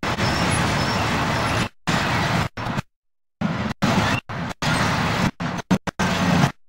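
Loaded merry-go-round coal hopper wagons rolling past on the rails, a steady rumble of wheels on track. The sound cuts out abruptly several times, once for about half a second near the middle, as if from tape dropouts.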